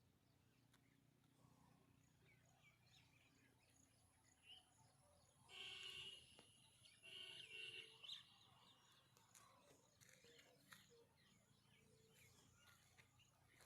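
Near silence with faint outdoor ambience. Around halfway through there are two or three faint, brief pitched calls from something distant.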